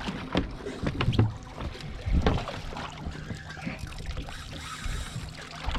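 Scattered knocks and bumps of handling on a small fishing boat over a low rumble of water and wind.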